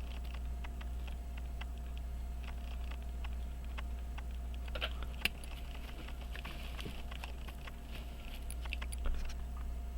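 Scattered small clicks and taps of watchmaker's tools, tweezers and screwdriver, on the small metal parts of a pocket watch being reassembled, with one sharper tick about five seconds in. A steady low electrical hum runs underneath.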